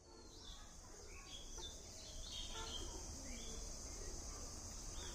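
Birds chirping, a series of short calls that slide in pitch, over a steady high-pitched insect buzz and a low rumble. The sound fades in over the first second.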